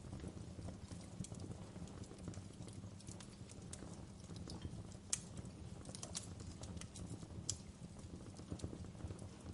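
Wood fire crackling in a fireplace: irregular sharp pops and snaps of burning logs over a steady low rumble of the flames, with two louder pops about halfway and about three-quarters of the way through.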